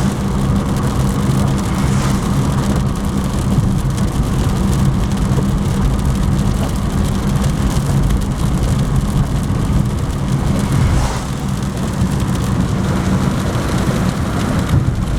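Honda Jazz being driven in rain, heard from inside the car: a steady low engine and road drone with an even hiss of rain and tyres on the wet road.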